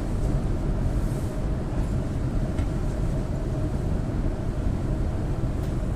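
EP2D electric train running: a steady low rumble of wheels on rail and running gear, with a faint steady hum above it.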